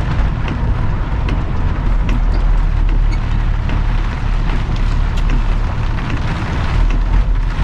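Truck engine drone heard inside the cab while driving, with scattered sharp ticks of rain striking the cab.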